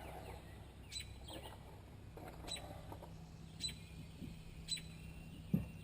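A bird's short, high chirps repeated about once a second over a steady low hum, with a dull knock near the end.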